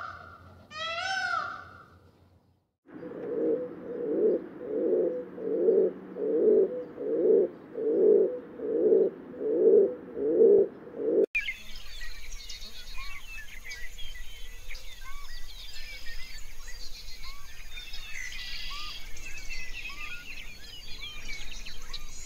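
Peafowl giving two loud, wailing, rising-and-falling calls. Then a bird's low cooing call repeated about eleven times at a steady pace, a little more than one a second. From about halfway through, a background of many small birds chirping and twittering.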